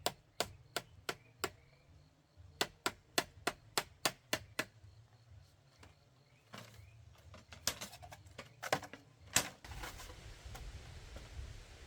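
Quick chopping strikes of a blade on bamboo, three to four a second, in two runs with a short pause between, then a few scattered, heavier blows. After these a low rustling follows.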